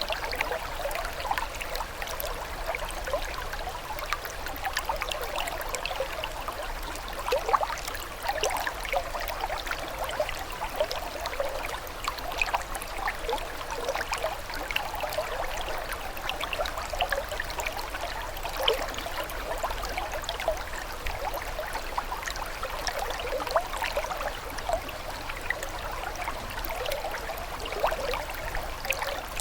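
Running water trickling and babbling steadily, a dense patter of small quick splashes like a shallow stream.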